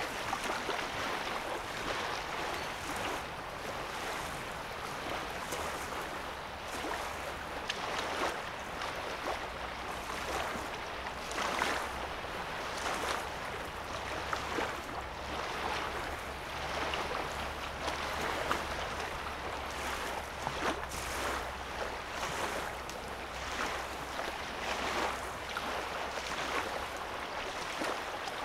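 Small waves lapping at the edge of a calm lake, a constant wash broken by many small, irregular splashes. A faint low rumble runs underneath from about ten seconds in.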